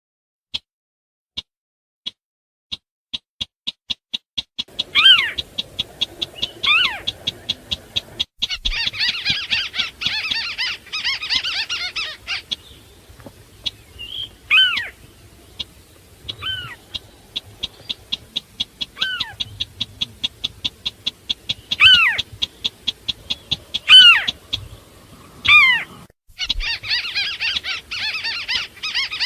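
Recorded calls of rails played as a bird lure: the sintar beker and the white-browed crake. A run of short sharp notes begins sparse and quickly speeds up into a steady rapid ticking. About ten sharply falling calls are laid over it, and there are two bouts of dense harsh chattering, one near the start and one near the end.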